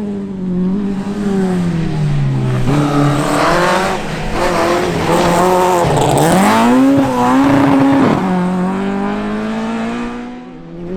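Rally car engine being driven hard, its note falling over the first couple of seconds, then climbing and wavering with throttle and gear changes, loudest and highest a little past the middle before dropping back about eight seconds in.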